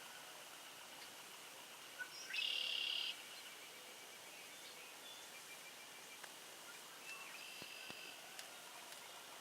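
Songbirds calling in the background, with one loud, even trill lasting under a second about two seconds in.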